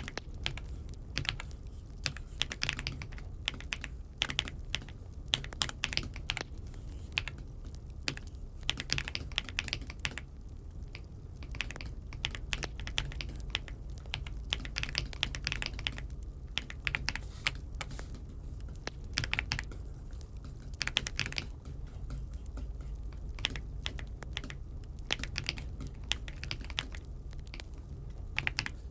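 Aula F75 (Dokgeomi F75) mechanical keyboard being typed on: irregular runs of key clacks with short pauses, over a low steady hum.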